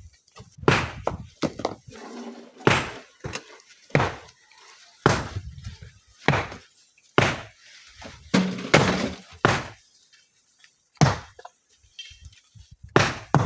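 Rocks being struck and handled in manual rock-breaking and loading: a run of heavy thuds and cracks, about one every second or so at an uneven pace, with short pauses between them.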